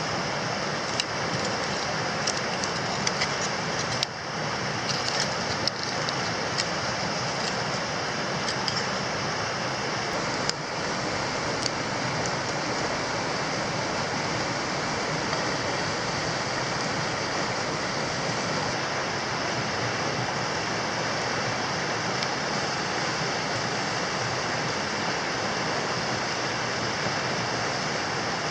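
Wood campfire crackling, with scattered sharp pops through the first twelve seconds or so, over a steady rushing noise.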